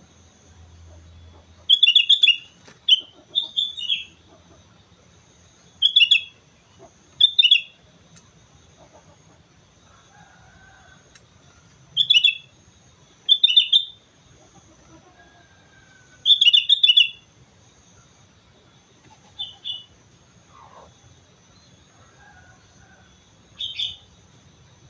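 Sooty-headed bulbul (kutilang) singing: short, loud phrases of a few quick bubbly notes, about nine of them with gaps of a second to several seconds between, the last two softer.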